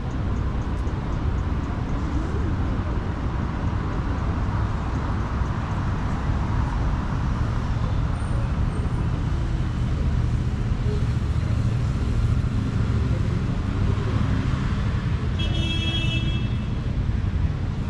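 Steady city street traffic noise with a low rumble of passing vehicles. A car horn sounds briefly, lasting about a second and a half, near the end.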